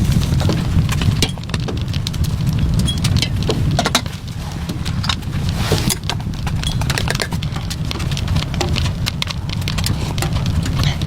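Rain drops tapping irregularly on a surface, many sharp ticks, over a steady low rumble.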